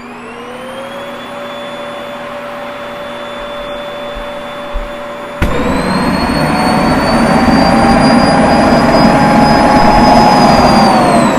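Vacuum cleaner motor running with a steady whine. About halfway through it suddenly gets louder and the whine climbs higher, and near the end the whine starts to wind down.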